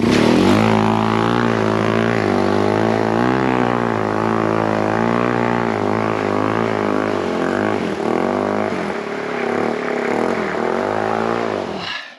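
Yamaha TW200's single-cylinder four-stroke engine running, its pitch rising and falling repeatedly as the throttle is worked. It starts and cuts off abruptly.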